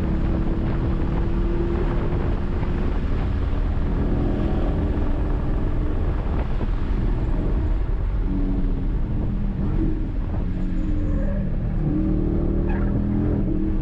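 Cabin sound of a 2009 Dodge Challenger R/T's 5.7-litre Hemi V8 driven hard on a race track, over road and wind noise. The engine note rises slightly at first and fades back in the middle, then comes through clearly again and climbs near the end as the car pulls out of a corner.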